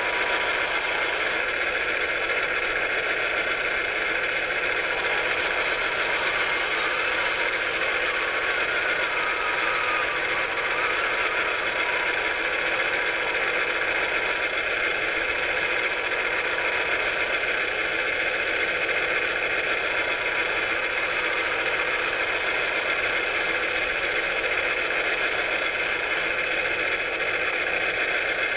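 Steady whir of radio-controlled model construction machinery, its small electric motors and gearboxes running, with a faint rattle and clatter.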